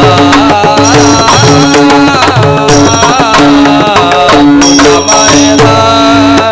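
Marathi abhang devotional singing: a voice draws out the melody without clear words over a hand-drum rhythm and held accompaniment notes.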